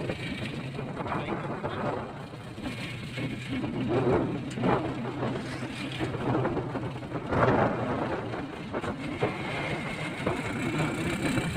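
A vehicle driving, its engine running steadily under road noise that swells and eases every few seconds.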